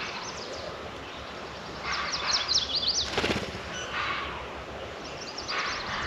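A songbird singing short phrases of quick high notes, three times, over a steady outdoor background hiss, with a brief knock about three seconds in.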